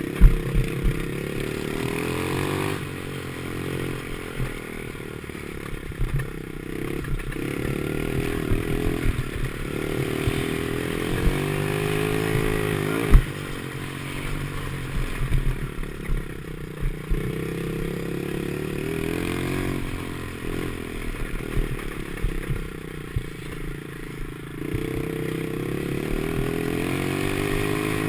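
Small 50cc pit bike engine revving up and falling back again and again as it is ridden around a motocross track, with occasional sharp knocks.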